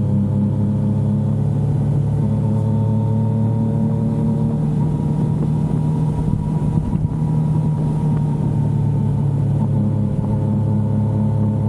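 Yamaha XSR900's inline three-cylinder engine running steadily while riding, its pitch almost constant with a brief dip about seven seconds in.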